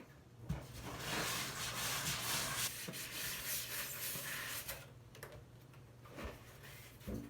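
Packing material and cardboard rustling and rubbing as parts are lifted out of a box, a dense stretch of about four seconds, with a few light knocks before and after.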